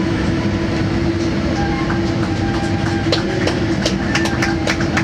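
Steady mechanical rumble with a constant hum, and a quick series of sharp clicks in the last two seconds.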